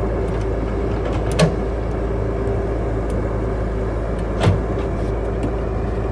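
Caterpillar 312 hydraulic excavator's diesel engine running steadily under digging work, with a constant hum, and two sharp clanks about three seconds apart.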